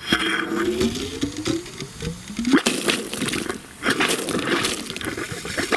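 Water and trapped air spitting out of a freshly opened outlet on the repaired well plumbing as air is purged from the line. It starts suddenly with warbling, wavering tones for about two seconds, then turns to an irregular gushing spatter with a brief lull near the end.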